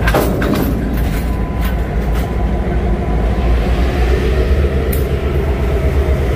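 Freight train rolling by with a steady low rumble, with sharp clacks in the first couple of seconds and one more about five seconds in.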